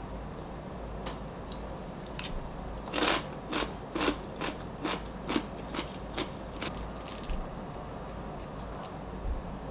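A person chewing crunchy food: a run of loud crunches about two a second through the middle, then fainter chewing.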